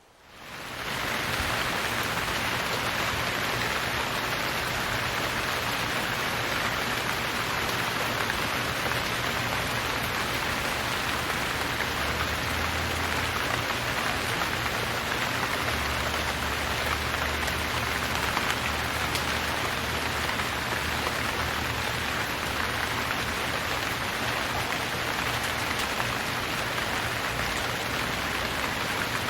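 Steady, heavy rain falling and pattering on surfaces, fading in over the first second and then holding an even, dense hiss.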